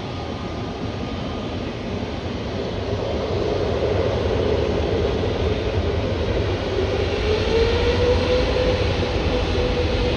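Airliner jet engines, a broad roar growing steadily louder as the aircraft approaches. About two-thirds of the way through, a droning tone rises slightly in pitch and then holds.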